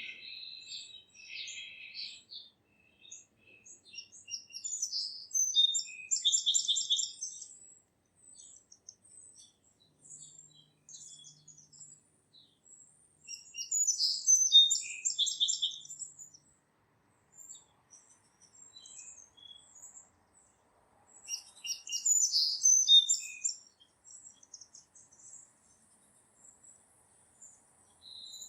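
Wild songbirds singing: one bird repeats a high, rapid song phrase about two seconds long three times, roughly eight seconds apart, with scattered short chirps from others in between.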